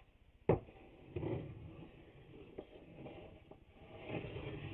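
Handling of wooden boards on a workbench: one sharp knock about half a second in, then faint rubbing and shuffling that grows louder near the end.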